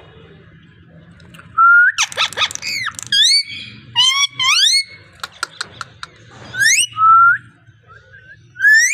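Parrot whistling: a run of loud whistled notes, many sweeping sharply upward, starting about a second and a half in, with a few short clicks in the middle.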